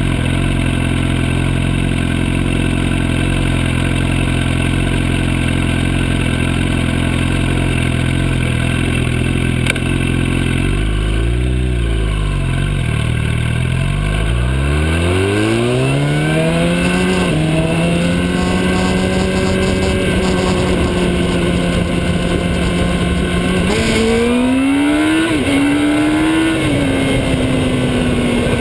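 Motorcycle engine running at a low, steady note, then revving up about halfway through as it accelerates and holding a higher, steady pitch. The pitch rises and dips again briefly near the end.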